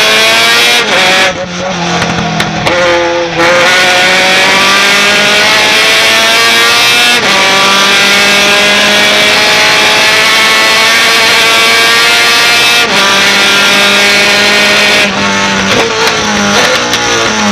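Racing pickup truck's engine under hard acceleration, its pitch climbing steadily through each gear and dropping sharply at upshifts about seven and thirteen seconds in. Early on the engine note breaks up briefly as it comes off the throttle and picks up again.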